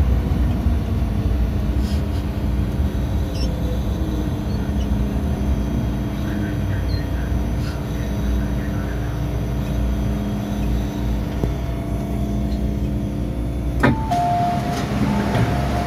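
MTR M-Train electric multiple unit slowing to a stop in a station, a steady low rumble with a faint motor whine easing down in pitch. About 14 seconds in there is a sharp clunk, then a two-note electronic chime as the doors open.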